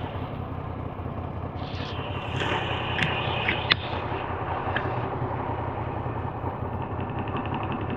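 Moto Guzzi V85's air-cooled V-twin engine running steadily at cruise, with wind rushing over the microphone. A few sharp ticks come about three to four seconds in.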